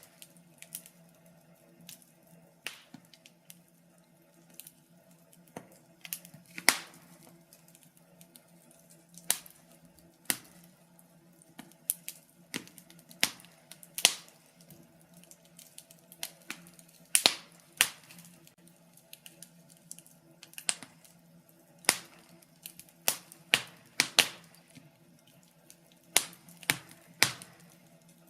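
Wood fire burning in a fireplace, crackling with irregular sharp pops, a few louder snaps among many small ticks.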